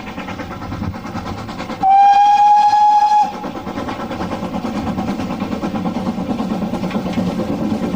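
A train on the West Somerset Railway sounds one steady whistle blast of about a second and a half, about two seconds in. Under it is the continuous rumble of the train running on the line, which grows louder toward the end.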